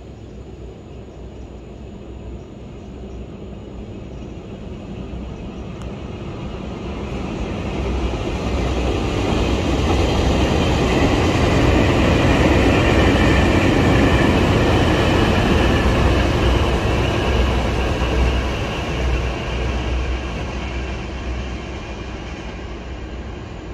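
Taiwan Railway electric multiple-unit train passing along an elevated viaduct: a rumble of wheels on rails that swells to its loudest around the middle and fades toward the end.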